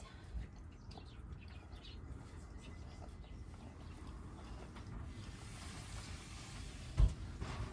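Faint chirps and light clicking, with a single dull thump about seven seconds in.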